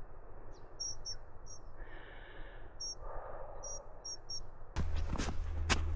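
Faint short chirps of a small bird, a few scattered calls. About five seconds in, footsteps crunching in snow begin, over a low steady rumble.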